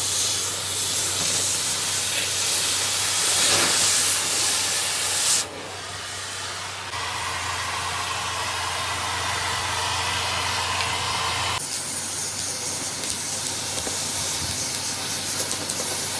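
Steady hissing machine-shop noise over a low hum, changing abruptly about five and a half, seven and eleven and a half seconds in.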